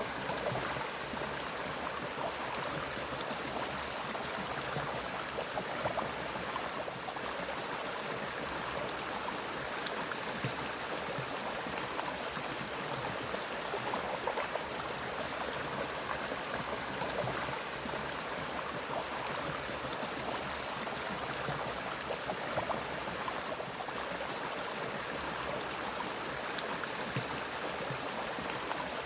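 Mountain stream flowing steadily through forest, with a constant high-pitched tone over the water.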